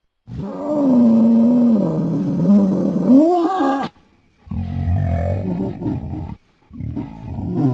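Sound-designed glyptodon creature calls: a long pitched roar whose pitch dips and then climbs at its end, then after a short break a lower, rougher call, and a third call starting near the end.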